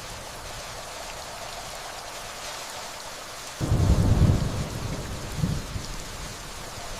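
Steady gentle rainfall with distant thunder: a low rumble comes in suddenly about halfway through, then swells once more briefly before fading back under the rain.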